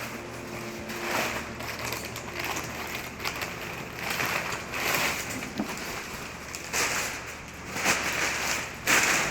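Packaging being handled as parts are unboxed: irregular bursts of rustling and crinkling, roughly every second or two.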